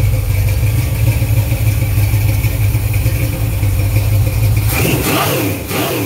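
Small-block Chevy 355 (a 350 bored .030 over) with a mild Comp Cams hydraulic flat-tappet cam, running on an engine stand through headers and Flowmaster mufflers. It idles steadily at about 750 rpm, then near the end the throttle is blipped and it revs up a few times.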